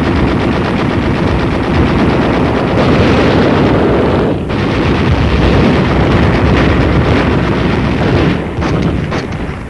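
Heavy, continuous small-arms fire: machine guns and rifles firing together in a dense, unbroken rattle, laid down as a base of fire. It breaks off briefly about four and a half seconds in.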